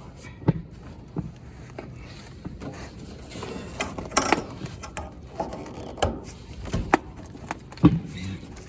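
Hands working with tools and pipe fittings: scattered clicks and knocks, with a stretch of scraping and rustling about three to four and a half seconds in.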